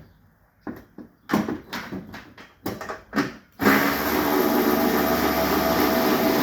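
A few short knocks and clicks of parts being handled, then about three and a half seconds in a motorized shop machine switches on and runs steadily and loudly, a motor hum under a hiss.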